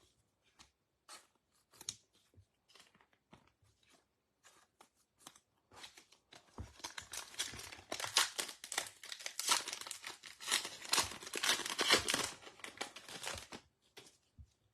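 A few faint handling clicks, then from about six seconds in a trading card pack's foil wrapper being torn open and crinkled for about seven seconds, loudest near the end before stopping.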